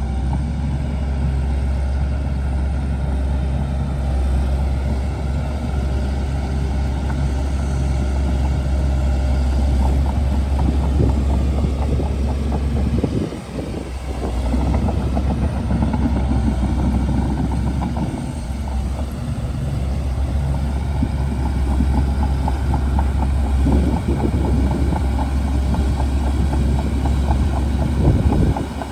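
Shantui DH17C2 bulldozer's diesel engine running, a steady low rumble that dips briefly about thirteen seconds in.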